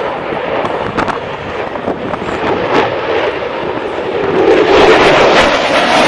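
Airplane engine noise at an air show, swelling sharply about four and a half seconds in as the aircraft draws near. A couple of sharp cracks come earlier, about a second and just under three seconds in.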